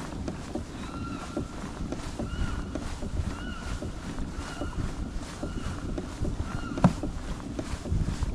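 Hobie kayak under way on the water: a steady low rumble of water and hull noise with light knocks. A short rising-and-falling chirp repeats about once a second, and a sharper knock comes about seven seconds in.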